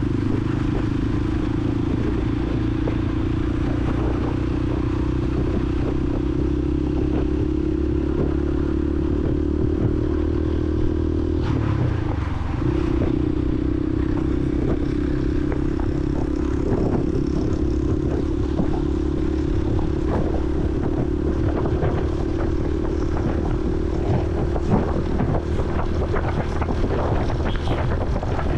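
Honda CRF150L single-cylinder four-stroke engine running steadily under way, heard from the rider's helmet. The engine note breaks and drops briefly about twelve seconds in, then settles back to a steady run.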